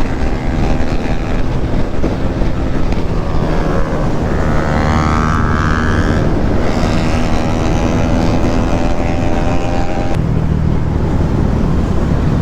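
Motorcycle engine and exhaust under way on the road, its pitch rising as it accelerates about four seconds in, then holding steady at cruising speed.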